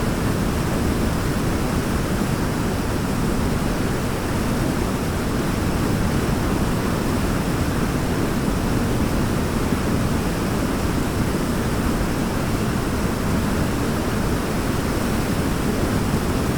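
Waterfall: water falling and crashing in a steady, unbroken rush, strongest in the low range.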